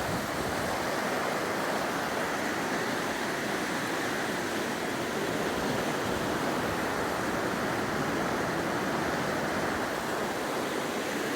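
Steady rushing of river water, the West Walker River running past the crossing.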